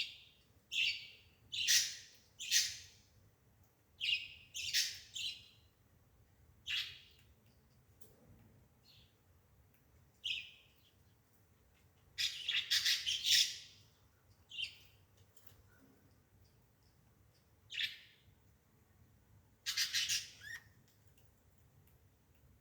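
A bird chirping: short high calls, singly or a few in quick succession, every second or so at first, then more sparsely, with a longer run of chirps about twelve seconds in and a short run near twenty seconds.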